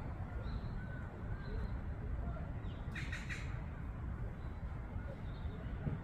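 Birds calling in the background: thin, faint calls, then a short rapid run of calls about halfway through, over a steady low rumble.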